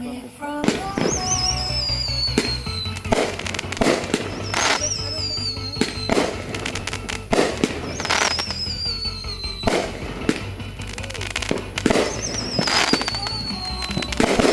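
Fireworks bursting with sharp bangs in quick succession, with several long falling whistles, over music playing with a steady low beat.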